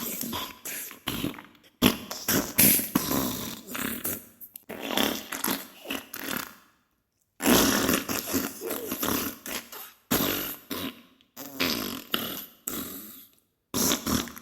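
Diarrhea sound effect: flatulent, wet-sounding farting and splattering in rapid, irregular bursts, broken by a short silence about seven seconds in and another near the end.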